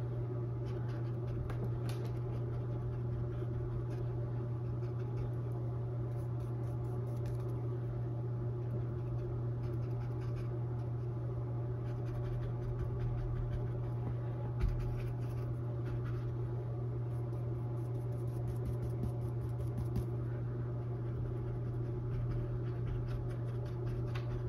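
Paintbrush scratching and dabbing on a stretched canvas in light, irregular strokes, over a steady low hum.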